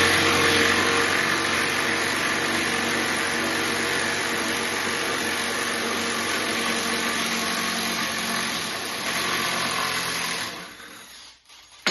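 Milwaukee M12 FUEL impact driver on drive setting 2, running continuously for about ten seconds as it backs a long screw out of a stud, then winding down and stopping near the end.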